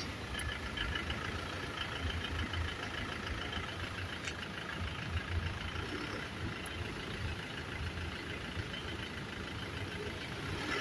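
2013 Isuzu Sportivo engine idling steadily: an even, pulsing low rumble with a fainter steady higher hiss.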